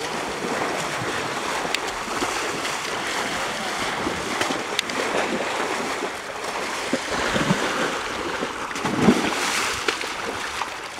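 Muddy water sloshing and splashing as people wade through a mud pit, over a steady rush of wind on the microphone.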